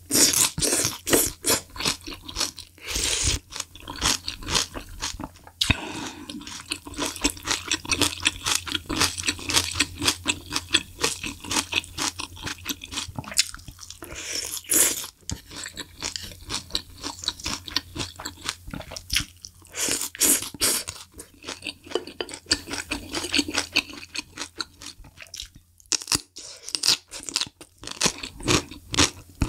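Close-miked chewing and crunching of malatang, the vegetables and noodles of a Chinese spicy hot pot: a dense, irregular run of crunches and wet mouth clicks.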